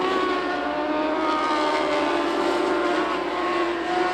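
Lightning sprint race cars running together at high revs, several engine notes overlapping and shifting slightly in pitch as the field circles the track.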